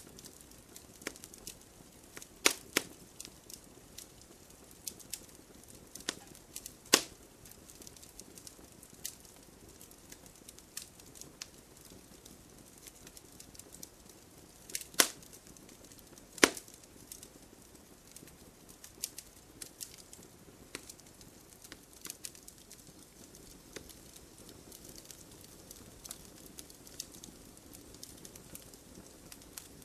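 Wood fire in a fireplace crackling: irregular sharp pops and snaps over a faint steady hiss, with a handful of louder pops standing out, two of them close together around the middle.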